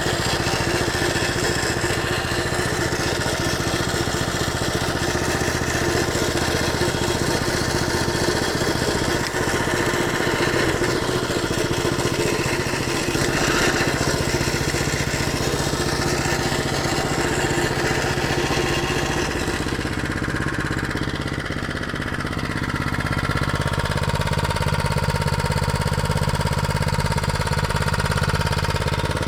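Small engine of a GNP-4000 engine-powered lawn mower running steadily. About twenty seconds in its note shifts and the level dips slightly before steadying again.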